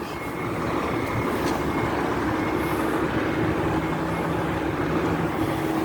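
Mitsubishi Fuso Shogun truck's diesel engine running as the truck reverses slowly, a steady engine noise that grows louder over the first second and then holds.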